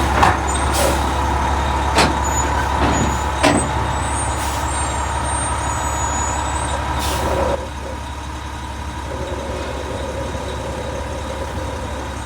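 Big truck running with a steady low engine hum. There are a few sharp clicks in the first few seconds and a short hiss about seven seconds in, after which the engine sound drops lower.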